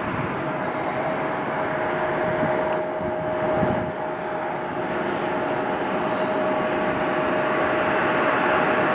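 Jet aircraft engines running: a steady rushing noise with a held whine, growing slightly louder toward the end.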